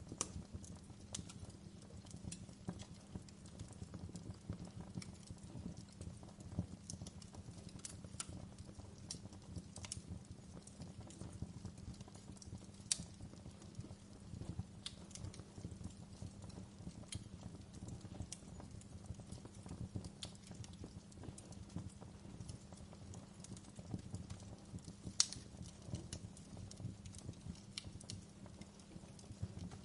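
Wood fire crackling: irregular sharp pops and snaps over a steady low rumble, with two louder pops about halfway and near the end.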